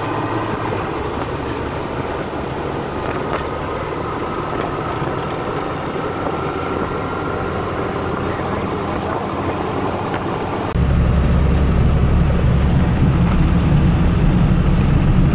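Steady engine and road noise heard from inside a moving vehicle's cab. About eleven seconds in it suddenly becomes louder and heavier in the low rumble.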